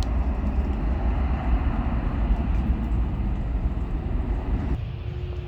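Airbus A320's jet engines running at take-off power, a steady deep roar with a broad rushing noise over it; near the end the sound changes abruptly to a quieter low hum.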